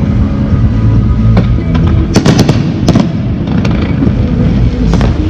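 Fireworks display going off: a continuous low rumble of booms, with sharp bursts and crackles clustered about two seconds in, again at three seconds, and near the end.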